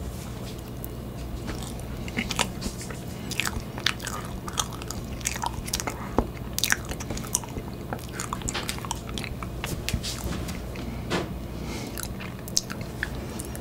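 Close-miked mouth sounds of a man chewing a spoonful of soft tiramisu cake: many short, wet clicks and smacks scattered throughout, over a steady low hum.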